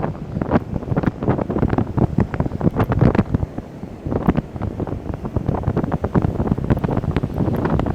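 Strong wind buffeting the microphone in irregular gusts, over the rush of heavy ocean surf, with a brief lull about four seconds in.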